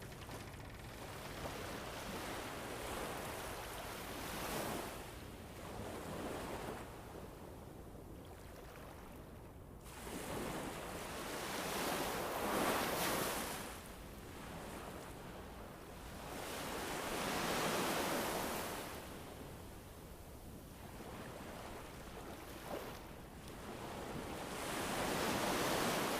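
Ambient nature soundscape of rushing noise that rises and falls in slow swells a few seconds apart, like surf washing in.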